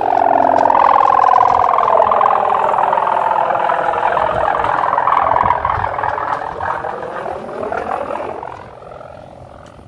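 Kite hummer (sendaren) droning in strong wind: a loud, wavering hum with many overtones whose pitch drifts up and down, fading away in the last second or two.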